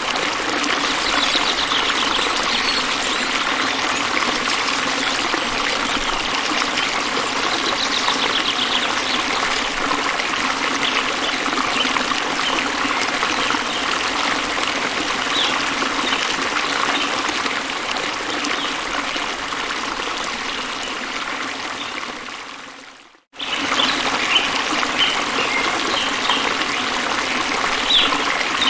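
Steady running water of a stream or brook, with a few faint, short, high chirps over it. About 22 seconds in it fades away and then cuts back in abruptly.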